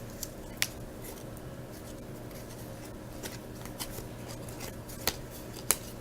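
Football trading cards being handled and flipped through one at a time, with a few sharp clicks of card edges over a steady low hum.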